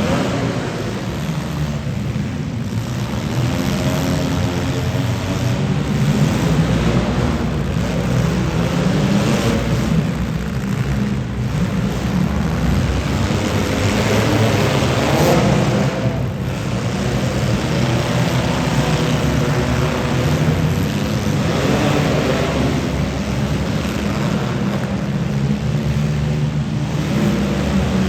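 Demolition derby car engines running and revving hard, several at once, with the pitch rising and falling, and a sharp bang about halfway through.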